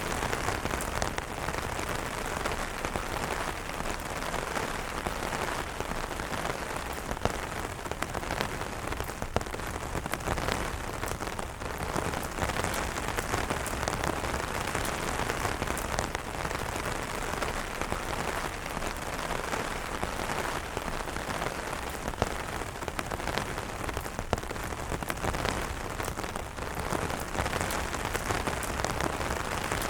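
Steady rain falling on umbrellas: a dense, even hiss of drops with single sharper drop hits scattered throughout.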